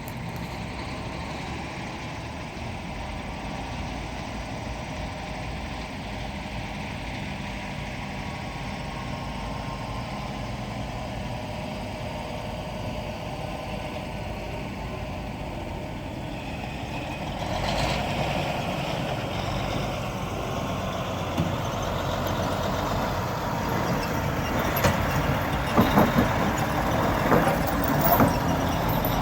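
Diesel locomotives of a freight train approaching with a steady engine rumble that grows louder about two-thirds of the way in. Near the end come several sharp clanks.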